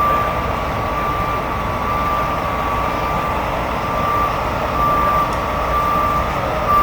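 Heavy truck backup alarm beeping about once a second over the steady low rumble of a diesel truck engine running.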